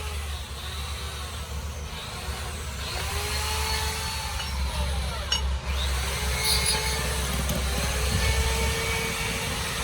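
A workshop power tool running steadily over a low hum, its whine rising and falling in pitch about once a second.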